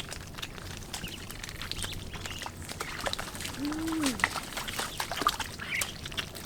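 Duck calling once, a short low rising-and-falling note a little past halfway, over scattered small splashes and clicks of shallow water.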